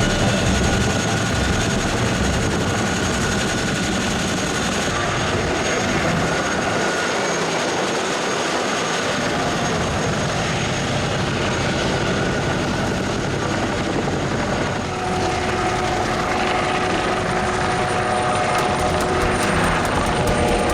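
Military helicopter running: a steady, dense noise with thin high whining tones. The sound shifts about fifteen seconds in, when new steady tones take over.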